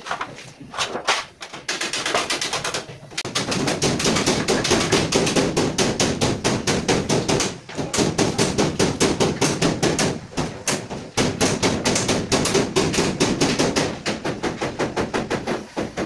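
Hammer beating on steel sheet for Bedford truck bodywork. A few separate blows at first, then fast runs of about five strikes a second, broken by short pauses.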